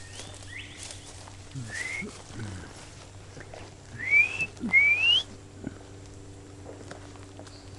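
Four short rising whistled notes; the two loudest come close together about four and five seconds in. This is the whistled back-and-forth between a man and the birds answering him.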